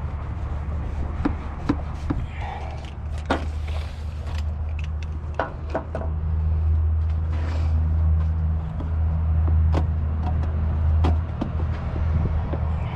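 Hand tools clinking and knocking against metal in irregular, scattered strikes while working on a car's thermostat housing, over a steady low rumble.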